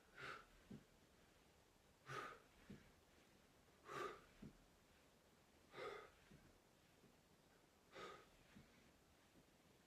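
A person's heavy breathing, rhythmic with exercise: five forceful breaths at even intervals about two seconds apart, each followed by a faint low knock.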